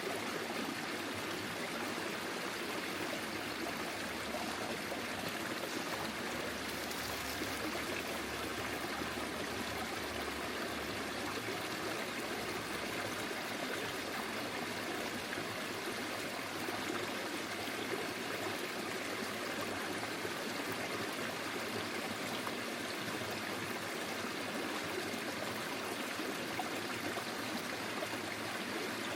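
Small forest stream flowing steadily over stones, a continuous babble of running water with light trickling.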